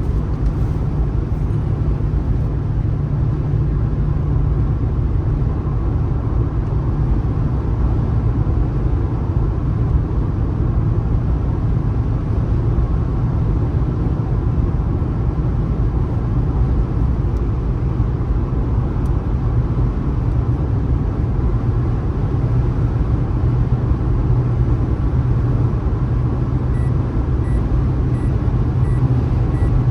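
A car driving at speed: steady road and tyre noise with a low engine hum. Near the end a faint tick repeats about twice a second.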